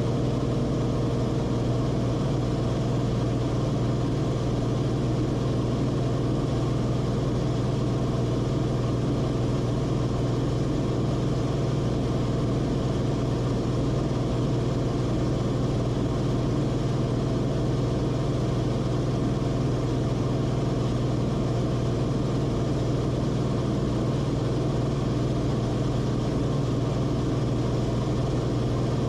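Cessna Corvalis TTX's turbocharged six-cylinder piston engine and propeller running at a constant, steady power setting.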